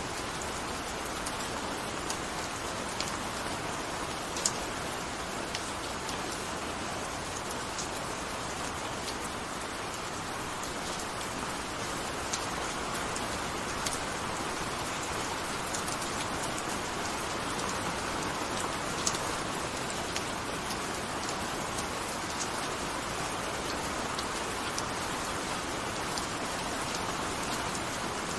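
Gentle steady rain falling, an even hiss with scattered individual drops ticking on a surface.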